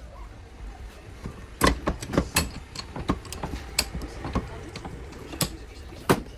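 Irregular sharp clicks and knocks of small hard parts or hand tools being handled, about nine in all, with the loudest about one and a half seconds in and near the end.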